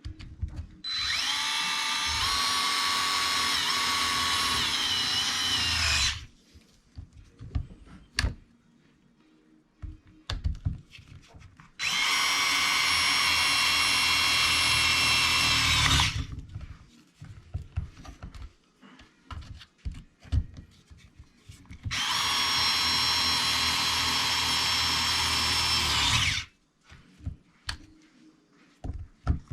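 Small electric screwdriver running in three spells of about four to five seconds each, a steady motor whine while driving screws, with small clicks and handling knocks in between.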